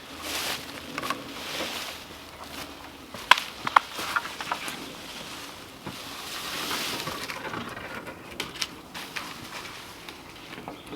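Rustling and crunching in dry leaf litter and twigs, with two sharp cracks about half a second apart around a third of the way through.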